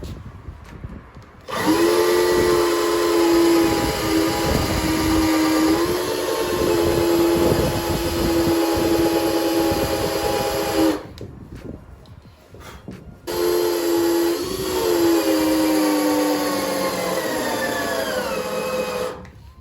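Power drill motor running under load while drilling through the kayak hull to enlarge bolt holes for the motor mount, in two long runs with a short pause between. The first run cuts off suddenly and the second winds down in pitch as it ends.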